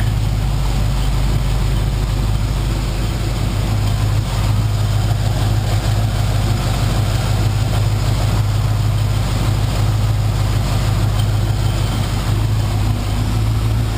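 1977 Chevy Camaro's 350 small-block V8 idling steadily after a cold start.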